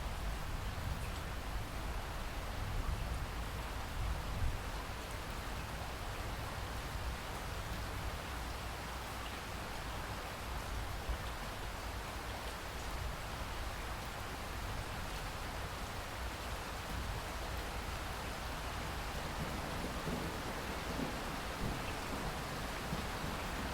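Steady rain falling, with a low rumble of thunder in the first few seconds and again near the end.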